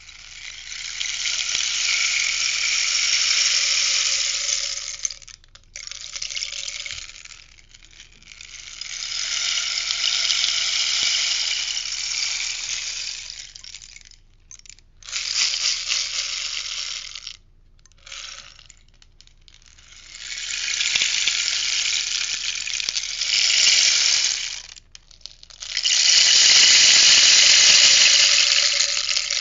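Rainstick being tipped again and again, its filling trickling down inside in a rushing, rain-like pour. There are about seven pours, some lasting several seconds and some brief, with short pauses between.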